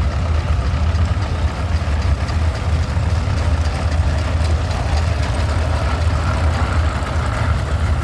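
Vintage tractor engine running steadily at low revs, a deep even rumble.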